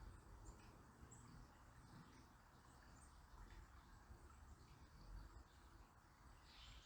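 Faint outdoor ambience: soft, sparse high chirps from small birds over a low, even rush of distant flowing river water, with a short run of louder chirps near the end.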